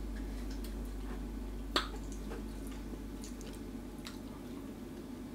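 Close-up chewing and soft wet mouth sounds of someone eating soft idli and dosa by hand, with faint small clicks and one sharper tick a little under two seconds in.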